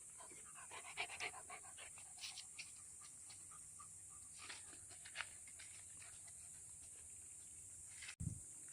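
Dog panting faintly, in short irregular breaths, over a steady high hiss, with a dull thump near the end.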